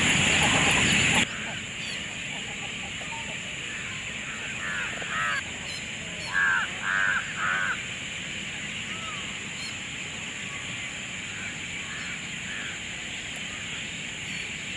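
Birds calling at a lakeside sanctuary: a few softer calls, then three louder harsh calls in quick succession about six seconds in, over a steady high-pitched insect drone. A loud rushing noise cuts off about a second in.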